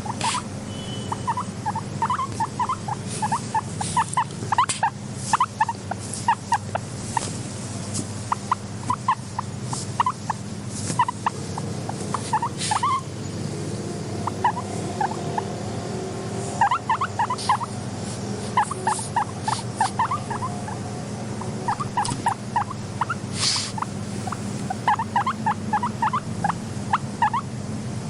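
Guinea pig making quick runs of short squeaky calls, several a second, with pauses between the runs, over a steady low hum.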